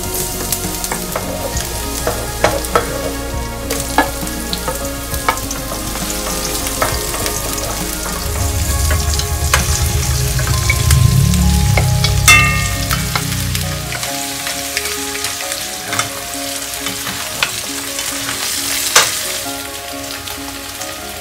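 Garlic, then onions and beef, frying and sizzling in hot oil in a deep nonstick pan, with scattered clicks and scrapes from stirring. The frying grows louder and fuller from about 8 to 14 seconds, when the onions and beef go in. A single metallic clink rings about 12 seconds in.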